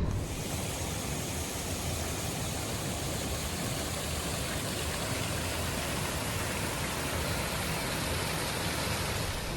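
Steady rushing of creek water, an even hiss that starts and stops abruptly.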